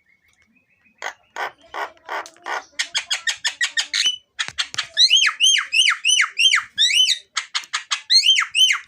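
Javan myna singing: a run of harsh rasping notes and rapid clicks, then a series of loud whistled notes that each sweep downward, about two or three a second, broken once by another burst of rasps.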